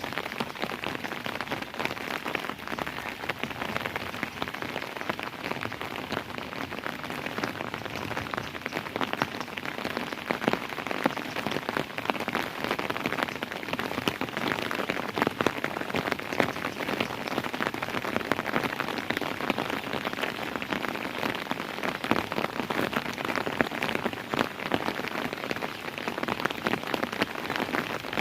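Steady rainfall, a dense patter of many drops striking a hard surface.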